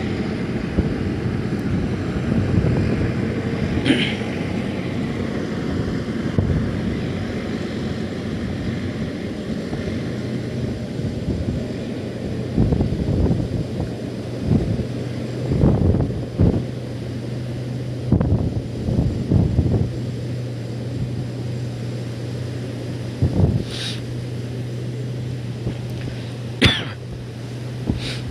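Strong wind buffeting the microphone in irregular gusts, with a steady low hum underneath and a few sharp clicks.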